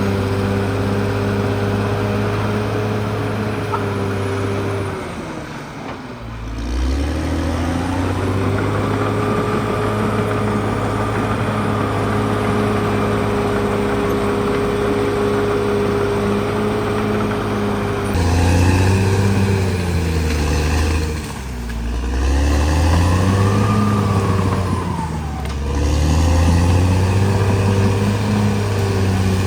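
Caterpillar D6R XL bulldozer's diesel engine running under load. Its revs sag and climb back once about five seconds in, then run louder and sag and recover twice more near the end.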